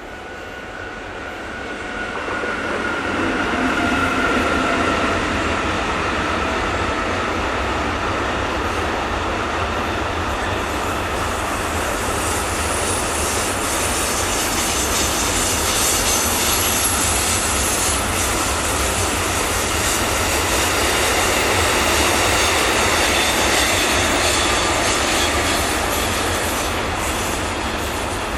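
Train passing close by through a curve, with wheels squealing on the rails over a steady rolling noise. It builds over the first few seconds, stays loud for about twenty seconds, then begins to fade near the end.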